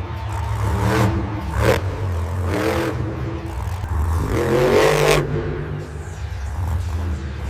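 Monster truck engine running loud and low, revving, with a few short clattering knocks in the first few seconds. About four and a half seconds in, the engine swells into a louder rev that rises in pitch.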